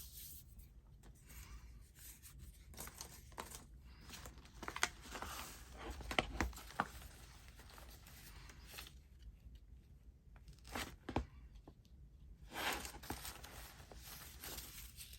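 Paper being handled and torn: intermittent rustles, short rips and small taps as a short strip of paper is torn off and worked onto an envelope.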